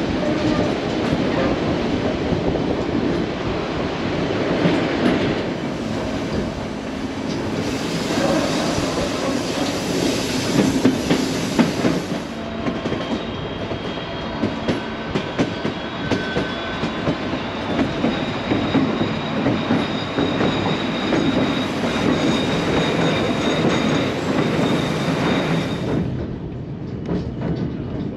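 White Pass & Yukon Route train heard from aboard a passenger coach: a continuous rumble and clatter of steel wheels over the rail joints, with faint thin wheel squeal through the middle stretch. Near the end the sound turns duller and a little quieter.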